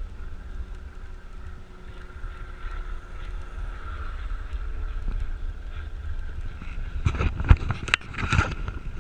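Wind buffeting the microphone during a bicycle ride, a steady low rumble with a faint whine of road noise. From about seven seconds in there are louder gusts and knocks.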